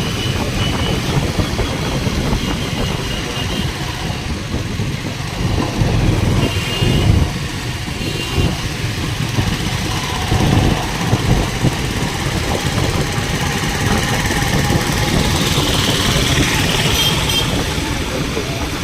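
Steady engine and road noise from a moving vehicle, with a few brief high-pitched tones about six seconds in and again near the end.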